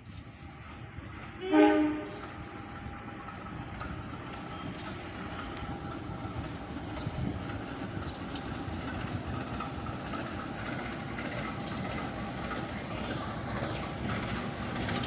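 A train's horn sounds once, briefly, about a second and a half in. A train then runs through with a steady rumble of wheels on rail that slowly builds, with a few sharp clicks over the rail joints.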